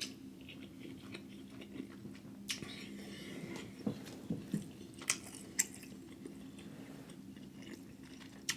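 A person chewing and biting food close to the microphone, with scattered short, sharp mouth clicks and smacks. A steady low hum runs underneath.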